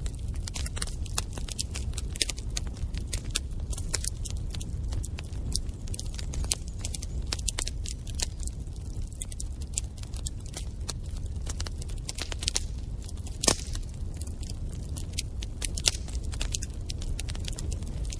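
Wood fire burning in a fireplace: a steady low rumble with many sharp crackles and pops, one louder pop a little past the middle.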